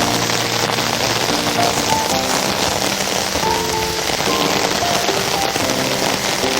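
Heavy rain falling steadily in a dense hiss, with a melody of short held notes playing over it.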